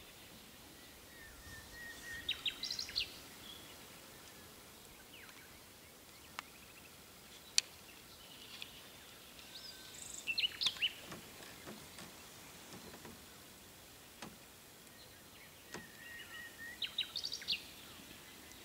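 A songbird sings a short, rapid phrase of high notes three times, about seven seconds apart, over a faint steady hiss. A single sharp click comes about seven and a half seconds in.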